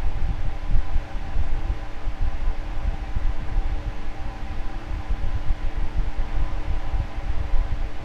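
Electric fan running steadily: a constant motor hum with several steady tones, over a hiss of moving air and an uneven low rumble.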